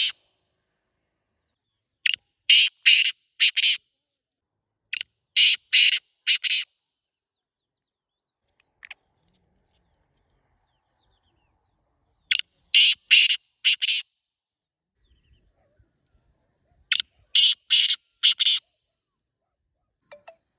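Black francolin calling: four separate runs of about five harsh, grating notes each, a few seconds apart. A faint steady high-pitched insect hum sounds between some of the calls.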